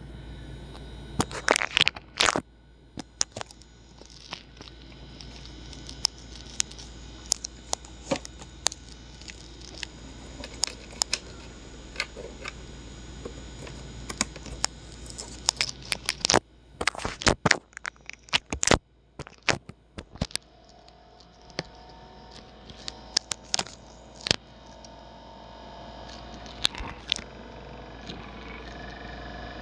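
Worn laptop CPU cooling fan running with a steady hum, broken by frequent irregular crackling, scraping clicks. A higher whine joins about two-thirds of the way through. The noise is the sign of the fan wearing out.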